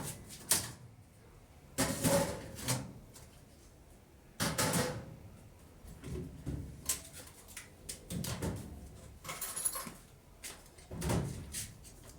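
A series of irregular knocks and clatters, about seven over several seconds, as things are handled and shut, like doors or lids being opened and closed.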